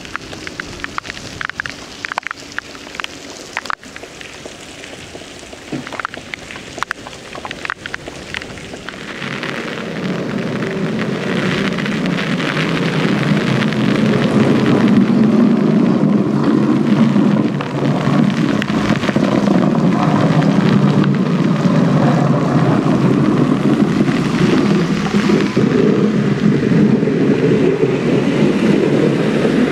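Rain falling, with scattered drops tapping close by for the first few seconds. From about ten seconds in a steady, louder low noise builds and holds.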